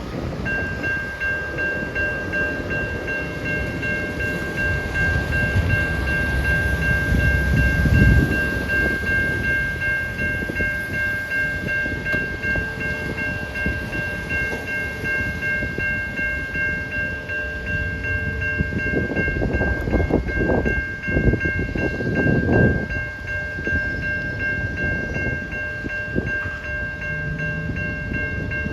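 Safetran Type 3 electronic level-crossing bell starting to ring about half a second in as the crossing activates, a steady, rapidly pulsing high electronic tone. A low rumble runs underneath, swelling at times.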